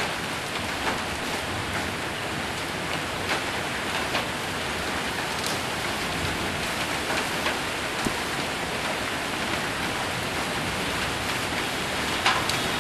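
Hail and heavy rain falling steadily on a metal roof, with scattered sharp knocks of single hailstones striking, the loudest one near the end.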